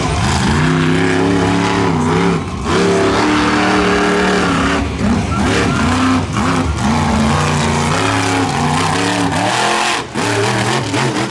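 Monster truck engine revving loudly, its pitch climbing and falling again and again as the throttle is worked, with short lifts about two and a half seconds in and just after ten seconds.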